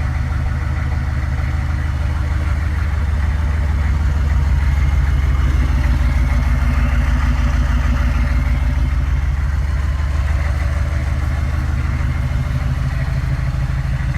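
6.5-litre turbo-diesel V8 of a K5 Blazer running steadily, a little louder for a few seconds in the middle.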